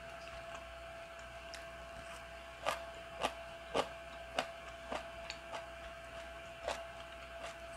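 Close-up chewing of crunchy white kimchi (baek-kimchi), a run of short crunches about two a second starting a couple of seconds in, picked up by a lapel mic. A faint steady hum lies underneath.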